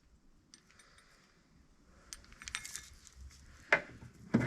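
Light metallic clinks and small rattles of hardware being handled, starting about two seconds in, with one sharper knock near the end.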